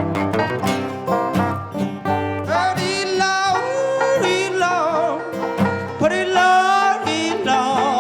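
Acoustic guitar and banjo playing a country-blues instrumental break: quick plucked notes at first, then sustained notes that bend and waver from about two and a half seconds in.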